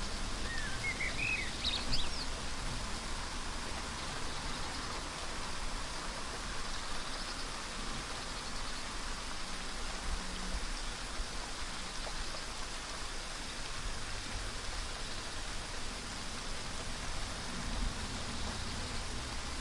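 Steady rain falling on leaves and branches. A bird gives a quick series of short chirps rising in pitch in the first two seconds.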